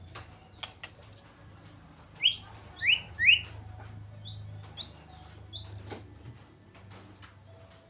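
White-rumped shama singing: three loud downward-sliding whistled notes about two seconds in, then three higher, shorter notes, with a few sharp clicks between phrases.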